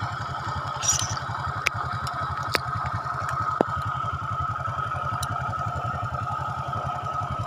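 A small engine running steadily with an even low throb, with a few sharp clicks over it.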